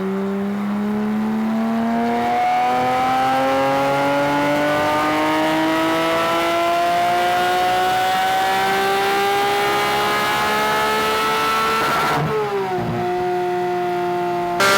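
Porsche 992 GT3's 4.0-litre flat-six with a Supersprint full exhaust, pulling under load with its pitch climbing smoothly and steadily for about twelve seconds. The pitch then drops sharply as the throttle closes and holds steady at a lower note, then jumps up again near the end.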